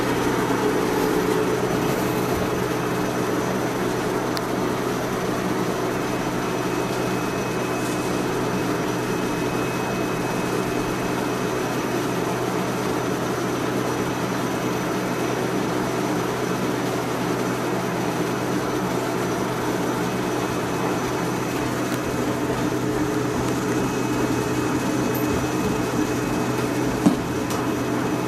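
Steady hum of a stationary JR West 105 series electric train's onboard equipment, heard inside the passenger car, several level tones over an even noise. A single short knock near the end.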